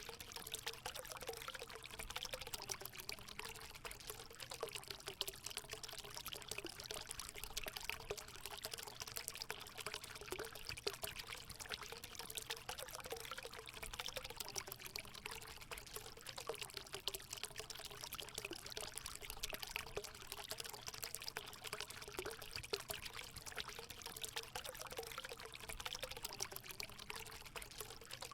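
Water pouring steadily into a hot spring pool: an even splashing rush with a wavering low note underneath.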